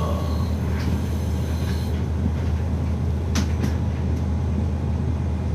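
Cabin sound of a city bus under way: the engine and running gear give a steady low drone, with a light hiss in the first two seconds and two sharp rattling clicks about three and a half seconds in.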